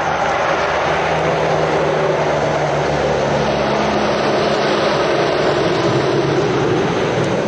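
Heavy diesel lorry passing close by: engine drone under loud, steady tyre and road noise.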